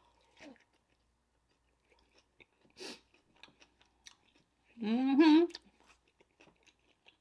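Close-miked chewing of a grilled-onion-wrapped burger: faint wet mouth clicks and smacks, with one louder smack about three seconds in. A short voiced 'mm' from the eater comes about five seconds in.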